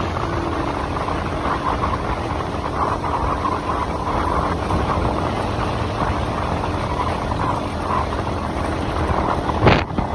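Motorcycle running steadily along the road, its engine mixed with rushing air noise. A single sharp knock comes near the end.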